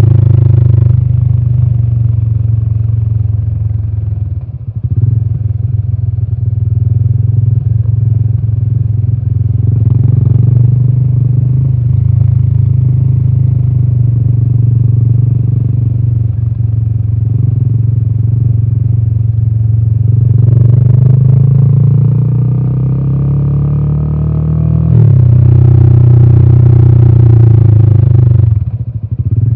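Royal Enfield Himalayan 450's single-cylinder 452 cc Sherpa engine and exhaust running on the road, a deep exhaust note that falls off briefly about four seconds in. Past the middle it climbs steadily in pitch, drops sharply and pulls loudly again, then eases off near the end, as with gear changes and throttle on and off.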